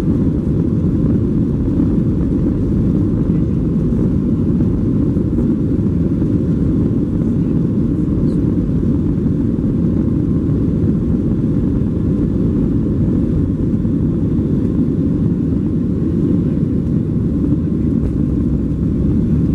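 Steady, loud low rumble inside the cabin of a Boeing 737-700: the noise of its CFM56-7B jet engines and the airflow.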